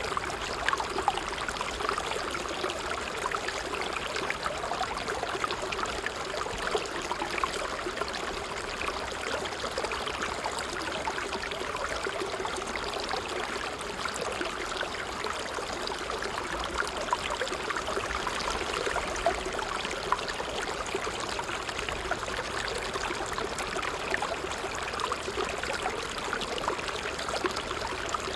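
Water trickling steadily, a continuous busy babble of small splashes and gurgles with no change in pace.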